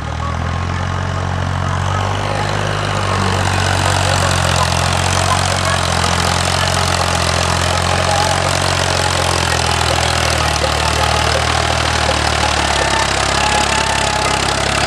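Tractor engine running steadily. It grows louder over the first few seconds and then holds an even note.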